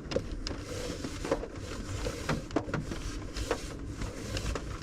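A box being wiped out by hand with a wet wipe: irregular rubbing and scrubbing, with scattered small clicks and knocks as the box is handled.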